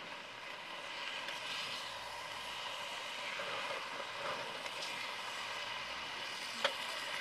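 Chicken and banana stem sizzling and steaming in a steel wok, stirred with a steel ladle, as a steady hiss; a single light clink of the ladle against the pan near the end.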